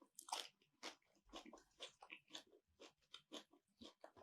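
A person chewing food, soft wet chews at a steady pace of about two a second.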